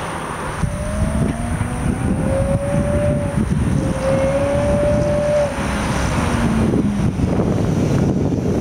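2011 BMW E92 M3's V8 engine and exhaust running with a dense low rumble and a thin tone whose pitch climbs, breaks off about halfway and climbs again.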